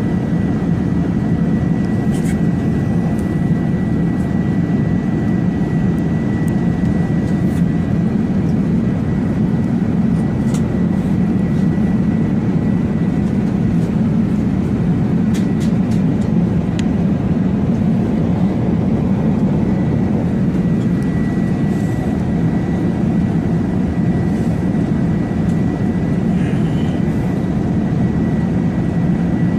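A steady, loud low rumbling drone, like a distant aircraft, with a thin constant high whine above it and a few faint clicks.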